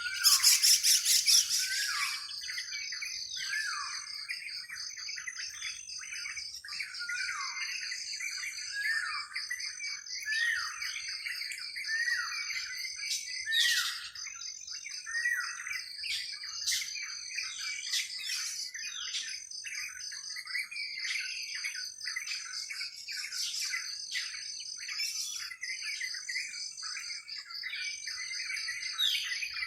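Many birds chirping together in a busy chorus of short, quick calls, over a steady high pulsing trill. A loud, shrill flurry of chirps stands out in the first two seconds.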